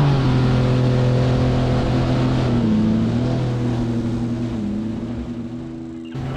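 Mini jet boat engine running at a steady pitch after easing off, with a couple of brief dips in revs, slowly fading.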